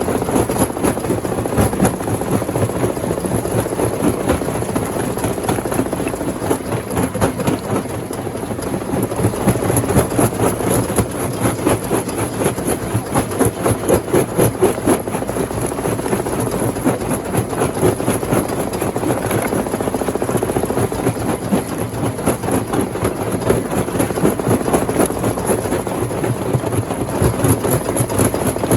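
Rock crusher machine running loudly, with a rapid, even pulsing that stays steady throughout.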